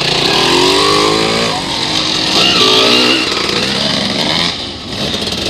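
Honda CRF four-stroke dirt bike engine revving up and easing off twice, the pitch rising and falling each time, over a steady hiss of wind and riding noise.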